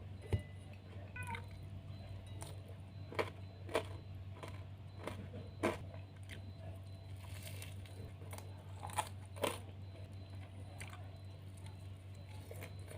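Close-miked chewing of crispy fried tofu and fried shallots, with about half a dozen sharp, separate crunches as bites break through the crisp coating.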